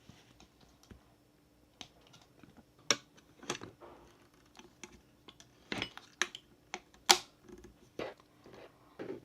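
Small hard parts and tools of a 1:18 scale model car clicking and clacking irregularly as they are handled, with two sharper knocks about three and seven seconds in.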